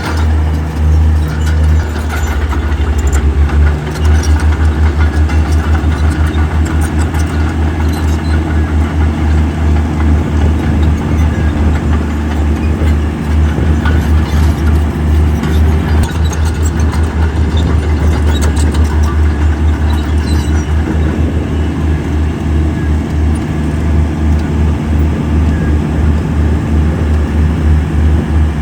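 Heavy diesel engine of earthmoving machinery running steadily under load, a deep pulsing drone, with faint metallic clanks now and then.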